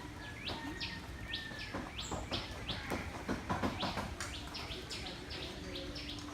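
Small birds chirping without a break: a fast run of short calls that each slide down in pitch. About two to four seconds in there is a burst of clicks and rattles.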